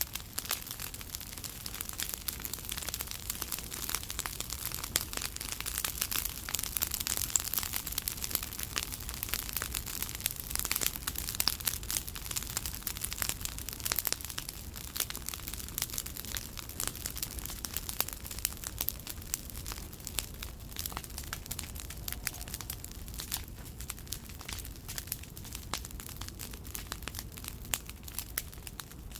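Wood campfire crackling, with dense irregular pops and snaps throughout, busiest in the first half.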